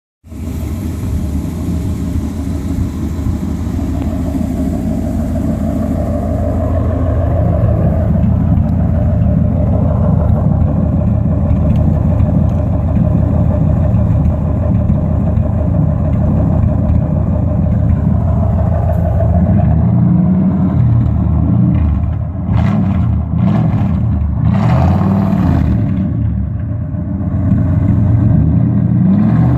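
Straight-piped exhaust of a 1979 Cadillac DeVille's V8 running with a loud, steady low rumble, revved a little. It gives a few short, sharper blips in the later part.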